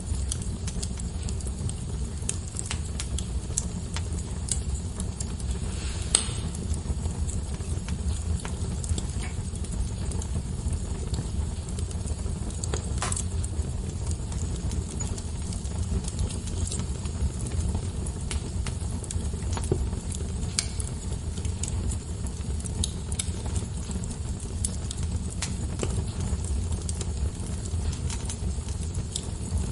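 Wood fire burning in a fireplace: a steady low rumble with frequent small crackles and a few louder pops, the sharpest about six and thirteen seconds in.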